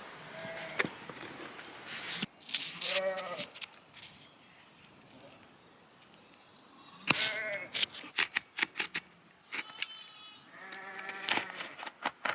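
Sheep bleating several times, short wavering calls spread through the stretch, with scattered sharp clicks and knocks in between.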